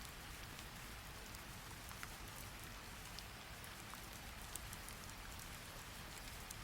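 Steady rain falling, a fairly quiet even hiss with scattered single drops ticking at irregular moments.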